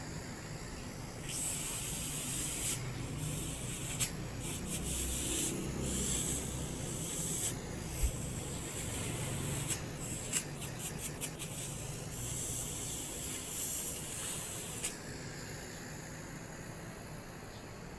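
Hissing spray from a homemade high-pressure car washer driven by an old refrigerator compressor, turned on and off in bursts. About two-thirds of the way through comes a quick run of short spurts, and the spray cuts off suddenly near the end.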